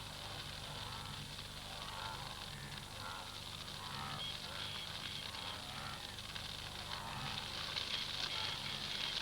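Dry-grass bush fire burning with a steady crackling hiss, growing a little louder near the end.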